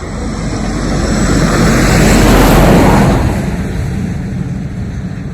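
A lorry driving past close by on the road: a rush of engine and tyre noise that builds, peaks about two and a half seconds in, then fades away.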